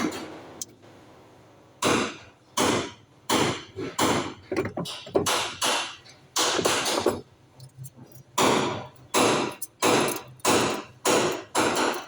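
Hammer blows, struck one after another at an uneven pace of roughly one to two a second, starting about two seconds in.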